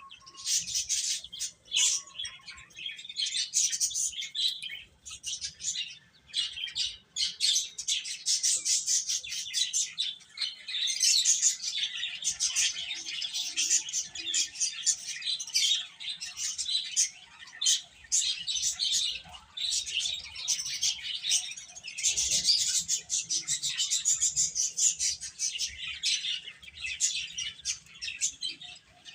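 A group of baby chicks peeping, many short high chirps overlapping one another with hardly a break.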